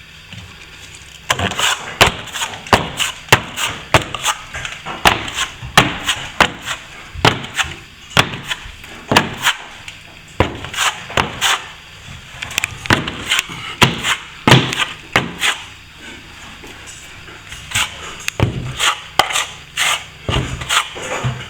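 A hand tool chipping and knocking loose plaster off a wall along the wall–ceiling joint: a run of irregular sharp knocks, two or three a second, with short scraping between them.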